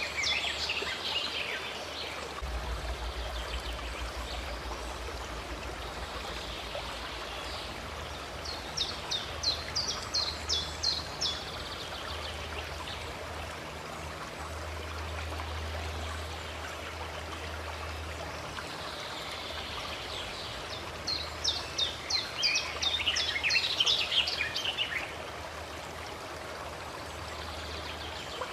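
Steady rush of a running stream, with birds singing bursts of rapid high chirps twice, about a third of the way in and again near the end.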